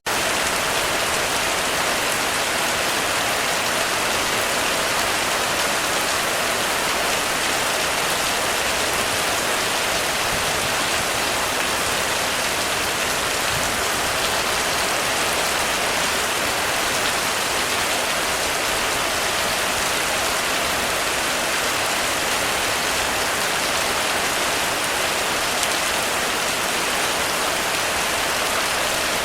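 Heavy rain falling steadily on a roof, a dense even hiss with no thunder.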